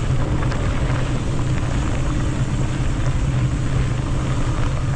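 Wind buffeting the microphone and tyres rumbling over a loose dirt trail as a mountain bike rides along, a steady low rumble with scattered faint clicks.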